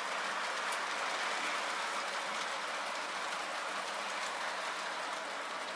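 Toy electric train running on its track: a steady rattling whir of the motor and wheels, with a few faint clicks.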